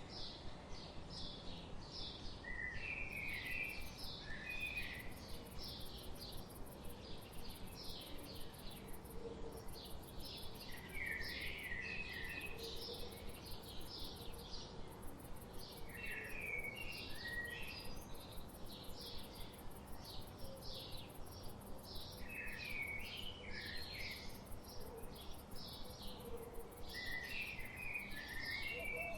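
Songbirds singing outdoors: a short song phrase repeated every few seconds among frequent quick high chirps, over a steady background hiss.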